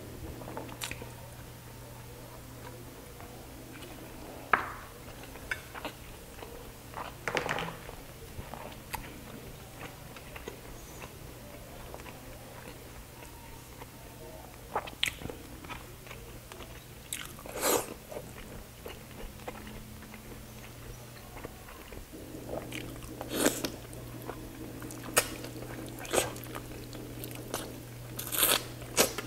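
Close-up mukbang eating sounds: biting and chewing saucy chicken, with wet mouth smacks and sharp clicks coming at irregular moments. A steady low hum runs underneath.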